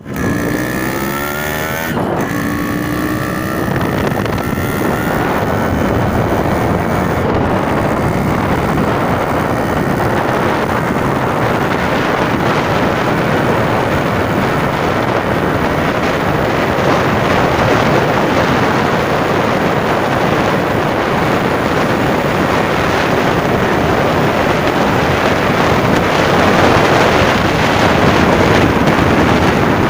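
Yamaha RX100 air-cooled two-stroke single-cylinder engine running on its original exhaust. The revs climb, drop at about two seconds and climb again, then settle into a steady, dense running sound.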